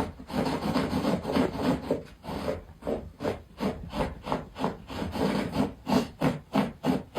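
Rhythmic scraping or rubbing, in evenly spaced back-and-forth strokes of about three a second.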